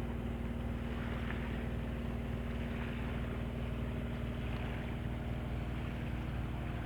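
Sailing yacht's engine running steadily under motor, a constant low drone.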